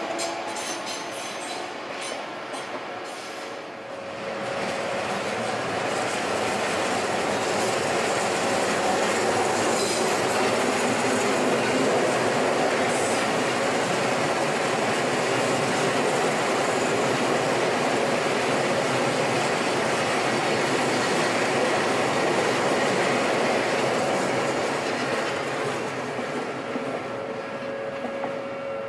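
Electric passenger train passing over a Japanese level crossing: a long, steady rush of wheels on rail that swells about four seconds in and fades near the end. The crossing's electronic alarm bell rings at the start and is heard again near the end as the train clears.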